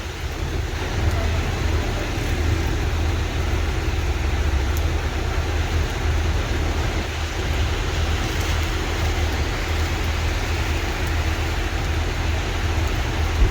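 Steady road traffic noise on a rain-wet road: a continuous hiss with a low engine hum underneath.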